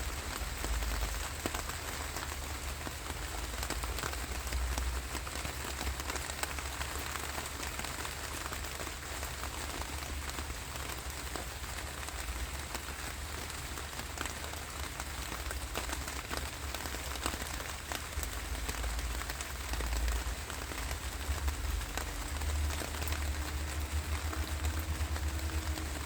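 Steady rainfall, with many separate drops ticking over an even hiss and a low rumble underneath. A faint steady hum comes in near the end.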